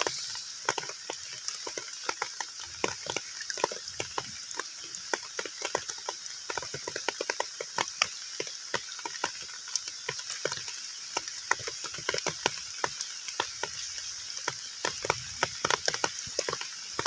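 Heavy rain falling on a pond's water surface: a steady hiss with many separate drops plinking and splashing, close together and irregular.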